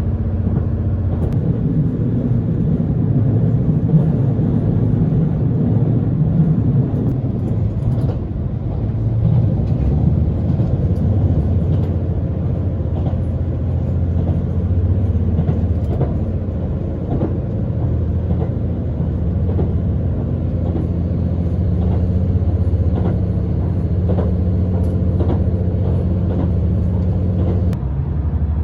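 Steady low rumble and engine hum of a diesel-powered express train heard from inside the passenger car, with scattered faint clicks and knocks.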